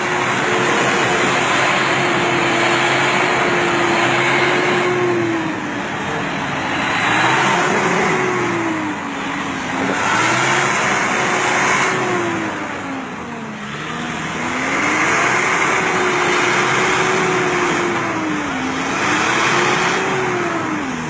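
A 4WD pickup truck's engine revving hard on a slippery hill climb, held at high revs and dropping briefly then climbing back about four times as the throttle is worked.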